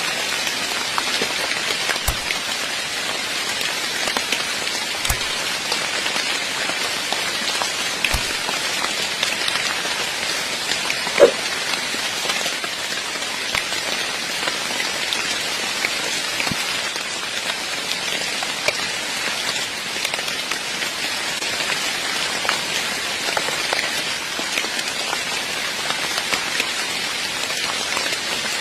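Heavy rain falling steadily, with scattered single drops ticking through it and one louder drop or knock about eleven seconds in.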